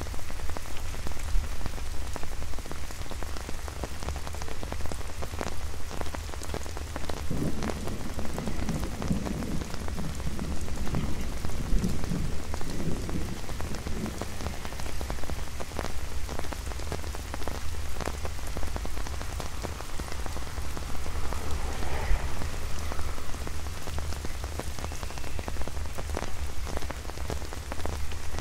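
Rain pattering on an umbrella held overhead: a steady hiss dotted with many sharp individual drop ticks, over a steady low rumble.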